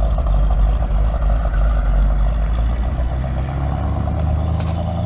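Engines of two classic Ford Mustangs with a deep, steady rumble as the cars drive off. A steadier engine note comes in about three seconds in.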